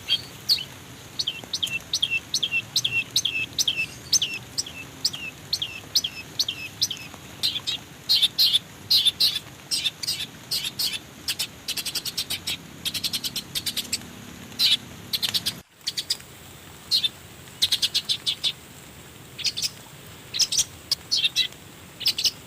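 Bird calling in repeated quick series of short high chirps, each chirp falling in pitch, over faint forest background noise; the calls break off briefly about two-thirds of the way through.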